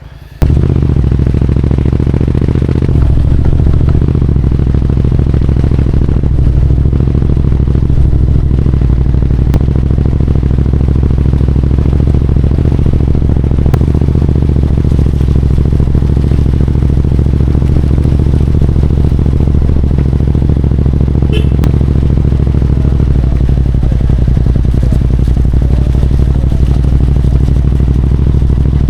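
Royal Enfield Continental GT 650's 648 cc parallel-twin engine running steadily under way, a loud, even, low exhaust note that cuts in suddenly just after the start.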